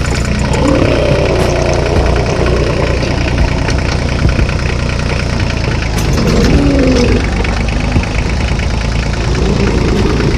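Tractor engine running steadily with a low, even chug.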